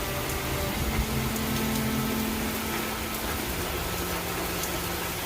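Steady heavy rain during a storm, with a low motor hum, like a vehicle engine, running under it; the hum drops in pitch about three and a half seconds in.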